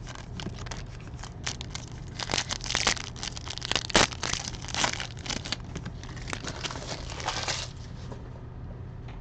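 Trading-card pack wrappers being torn open and crinkled by hand, a dense run of crackling and rustling that stops near the end, leaving a low steady hum.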